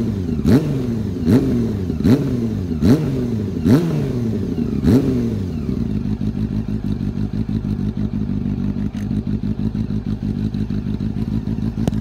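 Honda CB400 Super Four inline-four engine through an aftermarket titanium muffler, revved in six quick throttle blips, each rising sharply and falling back, before settling about halfway through into a steady idle.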